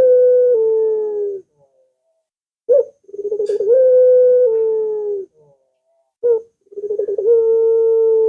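Puter (Barbary dove) calling its long drawn-out coo, repeated about every three and a half seconds: each call is a short note, a quick rolling trill, then a long held coo that steps down slightly. The first call is ending at the start, the second comes about three seconds in, and a third begins near the end.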